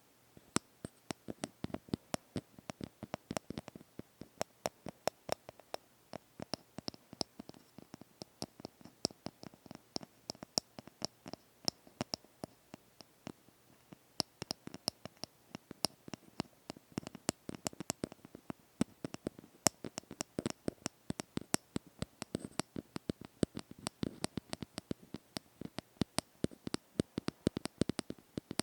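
ASMR tapping close to the microphone: a rapid, irregular run of light, sharp taps, several a second, without pause.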